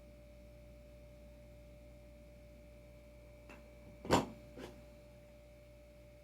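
Three short knocks close together about four seconds in, the middle one loudest, as skateboard hardware is handled and set down. Under them runs a steady faint hum with a thin steady tone.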